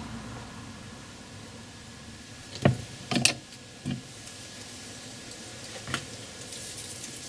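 A few sharp knocks and clinks of hand tools on metal, with a close pair in the middle, while a new wheel stud is pressed into an MGA rear hub held in a vise.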